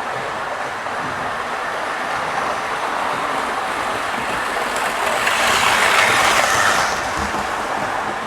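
OO gauge model train running on the layout's track, a steady whir and rattle of motor and wheels that grows louder for a couple of seconds after the middle as it passes closest, then drops back.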